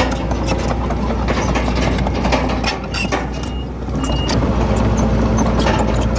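Heavy diesel earthmoving machine running, with frequent metallic clicks and rattles over a steady low rumble; the level dips briefly about three seconds in.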